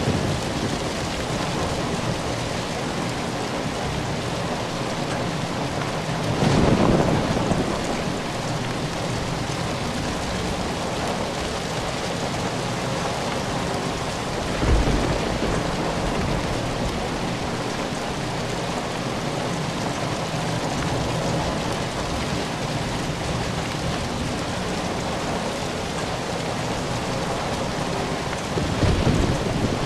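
Steady rain falling, with low rumbles swelling up three times: about seven seconds in, about fifteen seconds in, and near the end, like distant thunder.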